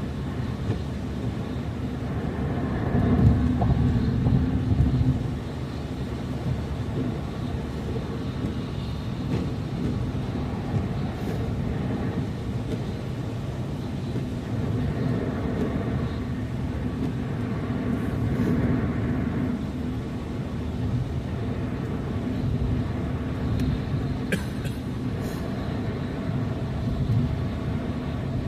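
Car driving: steady engine hum and road noise, swelling louder for a couple of seconds about three seconds in.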